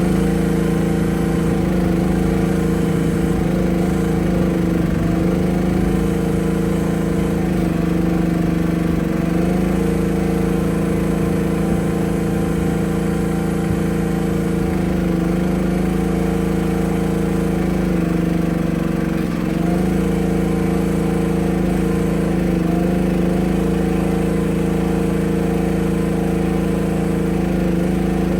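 Small gasoline engine idling steadily with an even, unchanging note.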